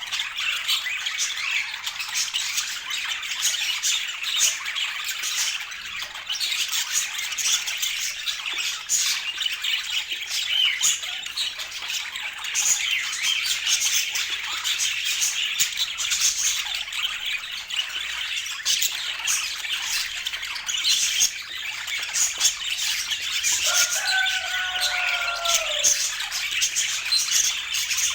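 Budgerigars chattering and squawking without pause, a dense warble full of clicks and chirps. Near the end one longer, slightly falling call stands out.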